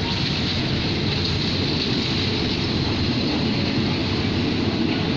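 State Railway of Thailand passenger coaches rolling past close by, a steady, unbroken rumble of steel wheels on the rails.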